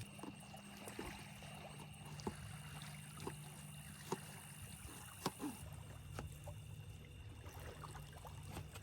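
Quiet outdoor ambience: a low steady hum with scattered soft ticks and pops, about one a second.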